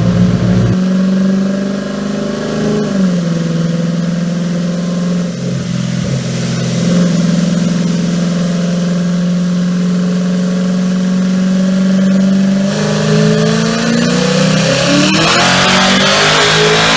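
Single-turbo Coyote 5.0 V8 of a 2017 Mustang GT running steadily at part throttle, with a small change in engine speed about three seconds in. Over the last few seconds the revs climb and the sound grows fuller and louder.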